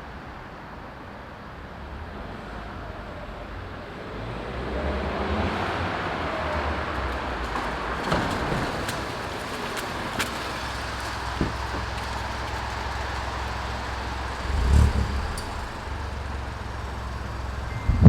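Ford Fiesta 1.0 EcoBoost three-cylinder engine on its stock exhaust, in a drive-by: the car grows louder as it comes past, then settles to a steady low engine note at low speed. There is a brief low thump near the end.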